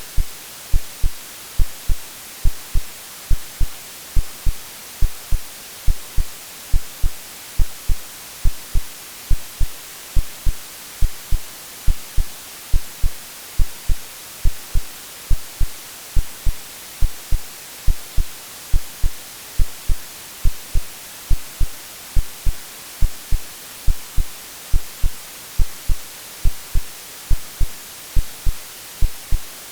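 AI-generated heartbeat sound over steady white noise: low lub-dub thumps in pairs, a little more than one beat a second, under an even hiss.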